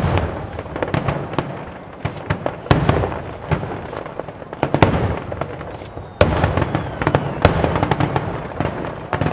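Aerial fireworks display: shells bursting in rapid succession with crackling, and a loud boom about six seconds in. Faint rising whistles follow it.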